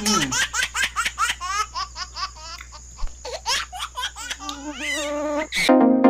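High-pitched laughter in rapid, repeated bursts, cut off near the end by electronic music with a steady beat.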